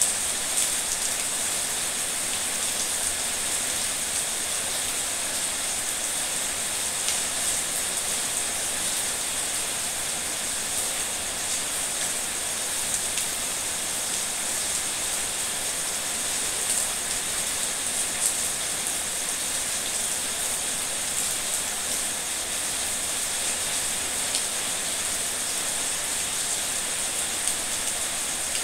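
Steady rain falling, an even hiss with occasional faint ticks of drops.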